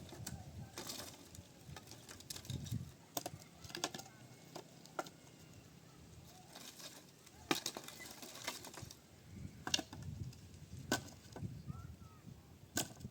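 Irregular light knocks and clicks, some close together, with a couple of faint bird chirps near the end.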